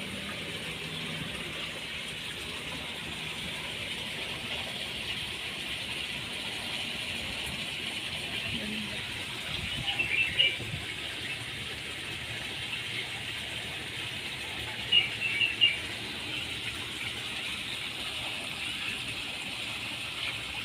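Small birds chirping in short bursts, twice, about ten and fifteen seconds in, over a steady high hiss of outdoor background noise.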